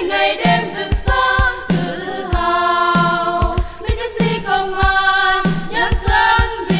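Female vocal group singing a Vietnamese song in unison over a backing track with a steady drum beat.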